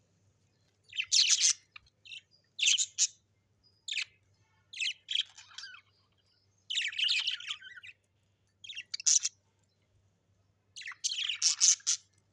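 A parrot giving short, harsh chattering calls in about seven separate bursts, each under a second long, with pauses of a second or so between them.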